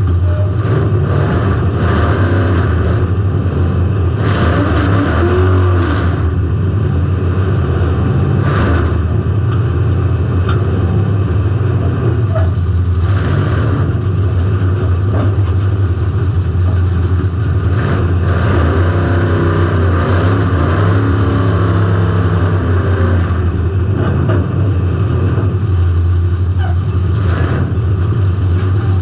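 Car engine running hard and steady, heard from a camera mounted on the car itself, with several sudden bangs scattered through.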